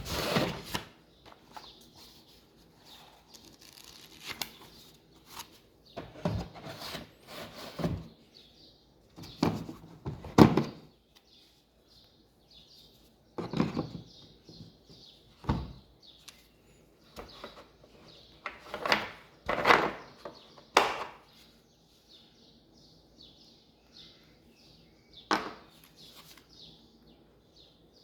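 Irregular knocks, thumps and rustles from handling an impact drill and its packaging as it is unboxed: about a dozen sharp knocks spread unevenly, with quiet gaps between.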